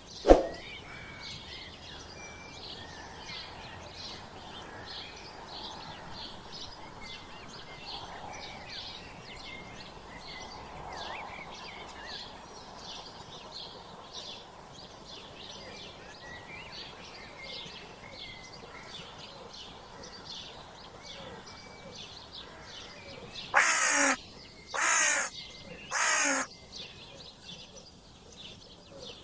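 Small birds chirping steadily in the background, then three loud, harsh crow caws in quick succession near the end. A single sharp click sounds just after the start.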